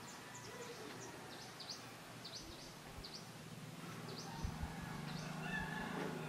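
Small birds chirping in the background: quick, short, high-pitched chirps repeating throughout. Under them is a low steady hum that grows a little louder about two-thirds of the way through.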